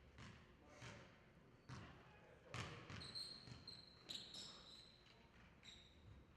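Basketball bouncing on a court floor, short thuds roughly once a second, with high, brief sneaker squeaks midway through.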